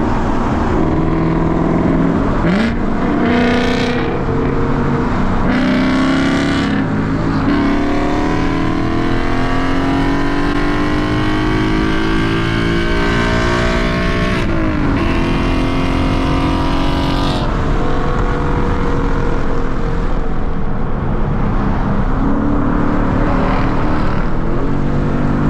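Car engine accelerating hard, its pitch climbing steadily through the gears and dropping sharply at each upshift, about halfway through and again a few seconds later, as in a roll race on the freeway.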